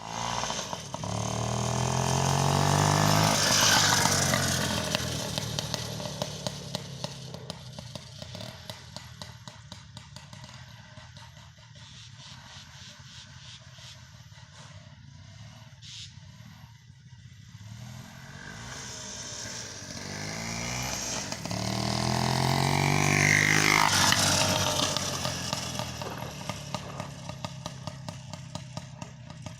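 Small motorcycle engine riding past twice: each time the note grows louder as it approaches, drops in pitch as it goes by, and fades away. The first pass is about four seconds in and the second about 23 seconds in.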